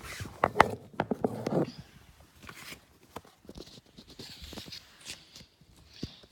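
Paper tube maps being handled: a run of small clicks, taps and rustles. A brief voice-like sound comes about half a second in and lasts about a second.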